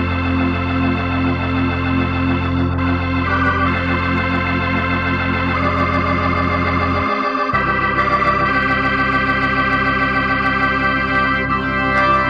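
1960 Hammond P3 organ playing sustained chords over held bass pedal notes. The bass note changes about seven seconds in, and the chords shift near the end.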